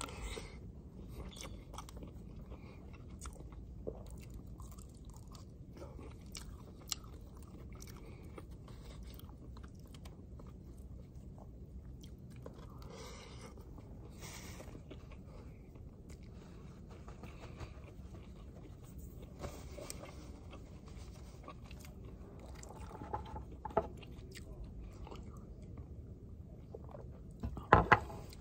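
A man chewing a mouthful of rice and grilled pork chop close to the microphone, with occasional light clicks of a plastic spoon and fork against the plate over a low steady background hum. Two loud sharp knocks come near the end.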